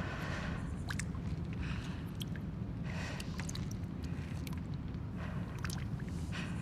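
Abandoned-building ambience: a steady low rumble, with brief hissing swells every second or so and scattered faint clicks and ticks.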